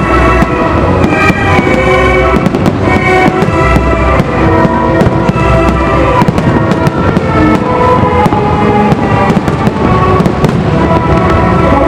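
Fireworks bursting in quick, irregular succession throughout, over loud music with sustained notes.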